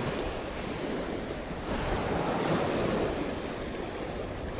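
Sea waves washing onto a sandy beach, one surge swelling about two seconds in and then easing, with wind buffeting the microphone.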